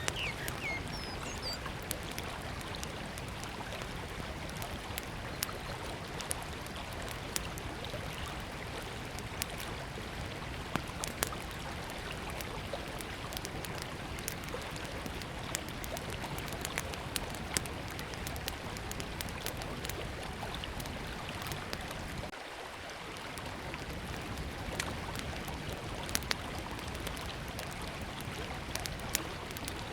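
Small wood campfire crackling, with scattered sharp pops, over the steady rush of a flowing river. A bird chirps briefly at the very start.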